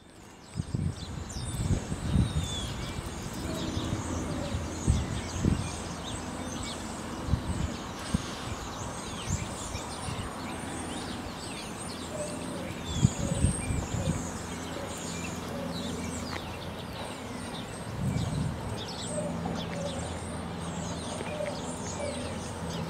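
Small birds chirping and twittering throughout, over a steady low rumble with irregular low thuds and a faint low drone.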